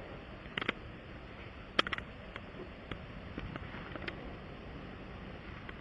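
Scattered light clicks and taps over a steady low background noise, the loudest a quick cluster about two seconds in.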